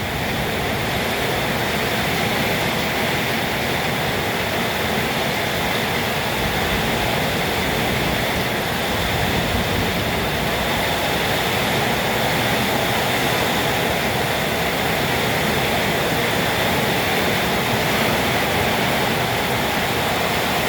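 Heavy rain pouring down steadily in a storm, an even rushing hiss with no breaks.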